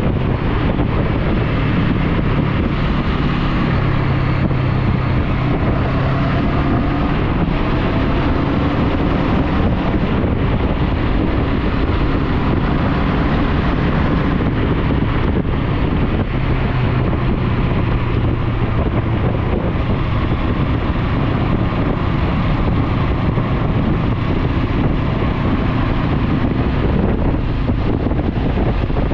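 Motorcycle engine running at a steady cruise while riding, with heavy wind noise on the action camera's microphone.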